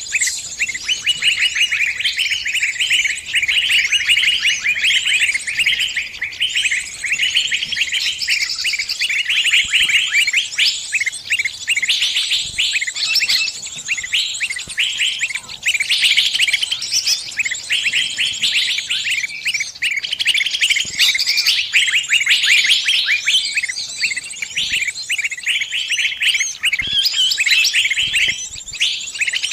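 Distress calls of a trapped small songbird: rapid, unbroken high-pitched chirping, the cries of a caught bird calling other birds for help.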